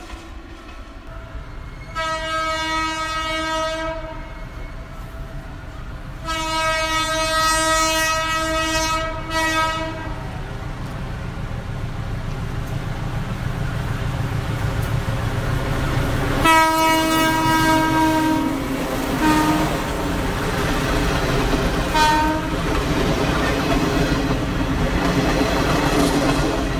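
Diesel train horn sounding in three long blasts, then two short toots, as an orange Philippine National Railways diesel locomotive and its coaches approach. Under it, the rumble of the train grows louder until the coaches are running past close by.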